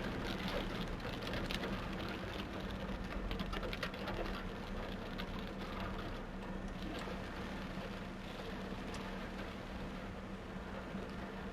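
Heavy rain on a car with the engine running: a steady rush of rain and water with a low hum, and scattered drops ticking, thicker in the first half.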